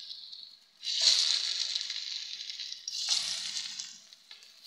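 Pieces of besan (gram-flour) barfi sizzling as they deep-fry in hot oil in a pan. The sizzle jumps up each time a fresh piece goes into the oil, about a second in and again about three seconds in, and then dies down.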